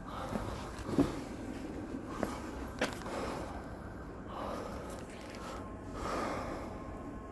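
Two sharp knocks, about a second and almost three seconds in, over a bed of rustling and breath-like noise.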